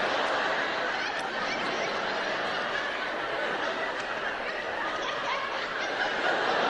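Audience laughing, a steady crowd laugh with no break, answering the comedian's punchline.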